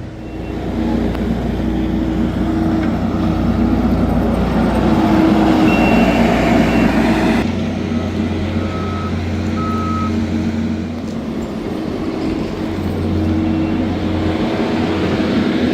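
Heavy trucks and machinery running steadily, with a few short electronic beeps near the middle like a backup alarm. The low engine hum shifts abruptly about halfway through.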